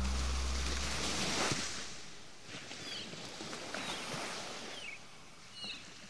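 A low, steady musical drone fades out over the first two seconds. It leaves a faint hiss in which a small bird gives several short, falling chirps.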